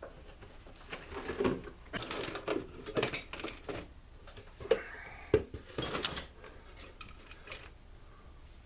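Irregular metal clinks, taps and scraping of small bolts and hand tools being handled while fitting the bolts on a chainsaw engine, with a few sharper taps in the middle and later on.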